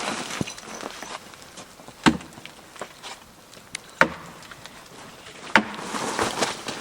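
Ice being struck and cracked: three sharp knocks about two seconds apart, with lighter crunching and clicks between.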